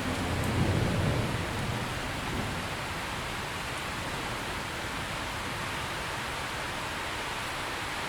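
Steady heavy rain, with a low rumble of distant thunder that swells and fades in the first two seconds or so.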